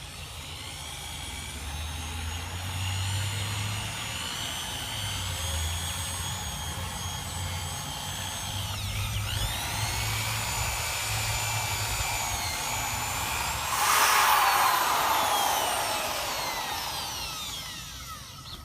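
Electric drill spinning a dampened green and gray abrasive disc against a plastic headlight lens, wet-sanding it. The motor whine dips briefly about halfway, gets louder for a moment about two thirds in, then falls in pitch as the drill winds down near the end.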